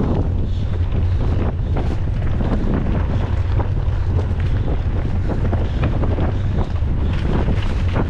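Wind buffeting the microphone of a camera on a moving mountain bike, a steady low rumble, with continual small knocks and rattles as the bike bounces over the trail.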